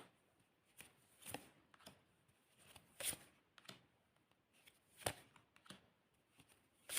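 Tarot cards being handled: faint short swishes and taps at irregular intervals, about ten in all.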